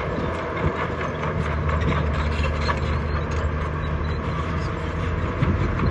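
Heavy diesel engine of an earthmoving machine running at a steady speed, with a light clatter of small clicks over it.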